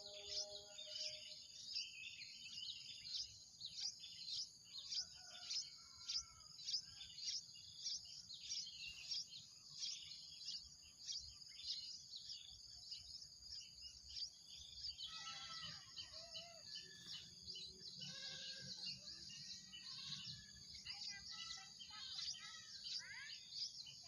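Small birds chirping: a quick, regular run of high, thin chirps, joined from about fifteen seconds in by lower, more varied chirps and short calls.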